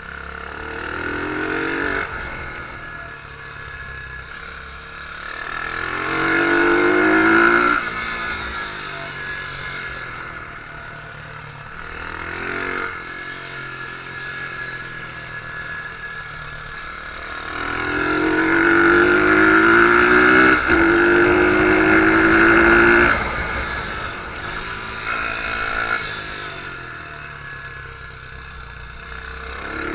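Beta R150 pit bike's single-cylinder four-stroke engine heard on board, revving up and easing off again and again. There are two long hard pulls, about a fifth of the way in and again from just past the middle, and each ends with a sudden drop as the throttle is shut.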